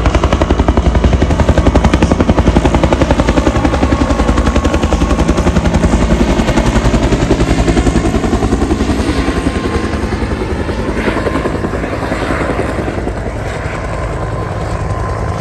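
Helicopter passing close by, its rotor blades chopping in a fast, even beat that eases off over the last few seconds as it moves away.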